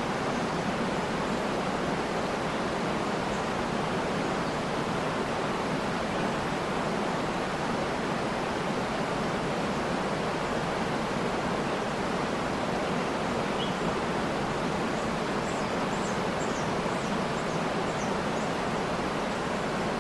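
Steady, unbroken rush of a waterfall, with a few faint, high bird chirps over it in the second half.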